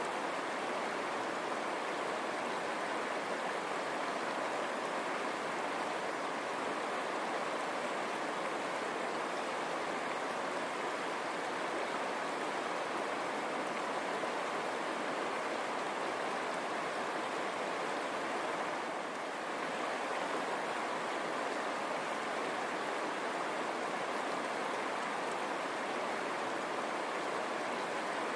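River water running steadily over stones, a continuous even rush.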